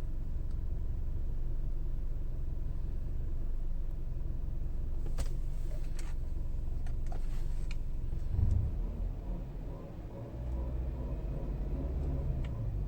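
BMW N46 2.0-litre four-cylinder petrol engine running warm with a strange metallic rubbing noise, which a new timing chain and fresh oil have not cured. A few sharp clicks come midway, then a brief louder bump about two-thirds in, after which the engine note changes.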